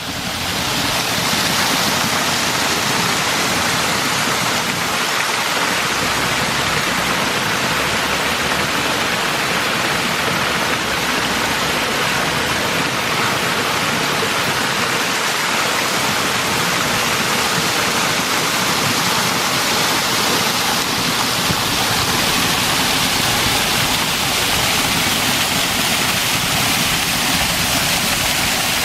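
Small garden waterfall splashing into a pond, a steady rushing hiss with no breaks.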